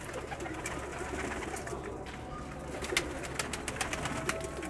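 Domestic pigeons cooing in a loft: low, wavering coos repeating, with scattered sharp clicks.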